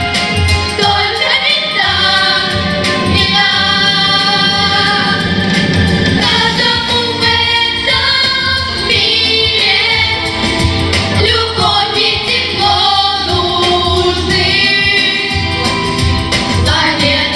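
Vocal group singing a song together in several voices over an instrumental backing with a steady beat.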